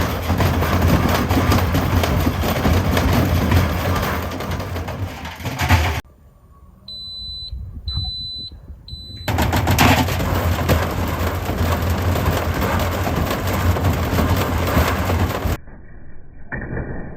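Frigidaire front-loading washing machine in a violently unbalanced spin, drum and cabinet banging and rattling in a rapid stream over a low hum. About six seconds in it drops to a quieter stretch with three short high electronic beeps, then the rapid banging returns, and near the end it gives way to a quieter steady tone.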